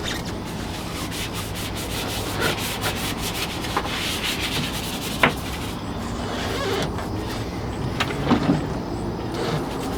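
A small brush scrubbing a boat's bilge and engine stringers in rapid back-and-forth strokes, with a few sharper knocks along the way.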